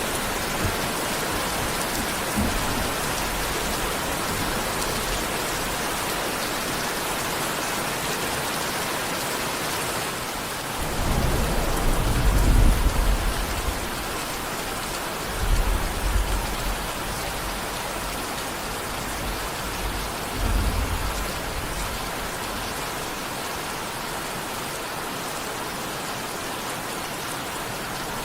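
Steady rain falling, with low rolls of thunder: a long one about eleven seconds in, the loudest, then shorter ones a few seconds later and again near twenty seconds in.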